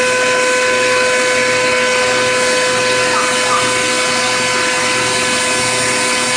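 Vacuum cleaner running steadily: a constant motor whine over a rushing air noise.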